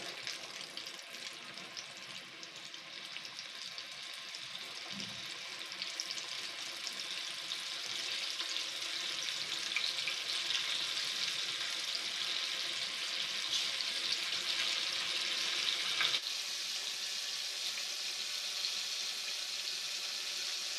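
Flour-coated chicken pieces deep-frying in hot oil: a steady sizzling hiss with fine crackling that grows louder over the first several seconds.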